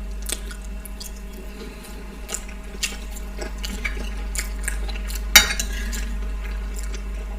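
Quiet eating sounds: small clicks of a spoon against a plate and chewing, with one sharper clink about five and a half seconds in, over a low steady hum.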